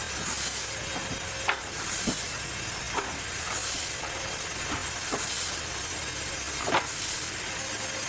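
Serra Africa XE160 mobile bandsaw mill cutting a cumaru hardwood log: a steady running noise with a hiss that swells about every one and a half seconds, and a few sharp knocks or clicks.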